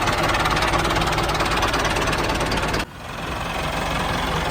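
Small engine of a handmade miniature tractor running steadily with a fast, even ticking. The sound drops out abruptly about three seconds in and comes back within a second.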